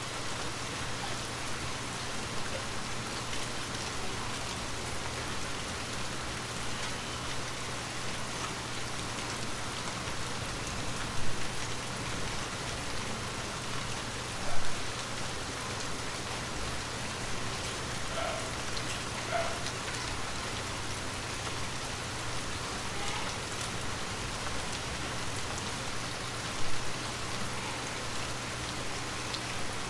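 Steady rain pattering on a window pane. Three louder single taps stand out: one about a third of the way in, a sharper one about halfway, and one near the end.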